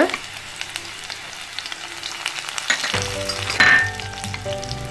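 Sliced shallots and green chillies sizzling in hot coconut oil in a clay pot, with a short louder flare about three and a half seconds in.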